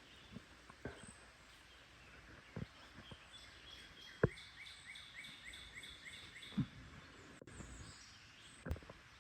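Faint outdoor background noise with a bird chirping: a quick run of about seven short, evenly spaced chirps near the middle, plus a few scattered sharp clicks.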